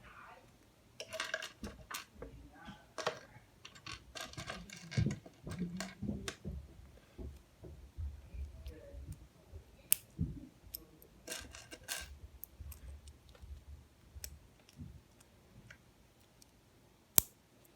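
Small plastic LEGO Technic pieces clicking and rattling as they are handled and pressed together, in scattered short clusters, with one sharp click near the end.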